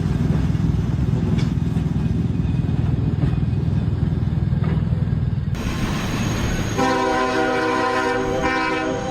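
Low rumble of a train on the move, which drops away abruptly a little past halfway. Then a train horn sounds for about two seconds.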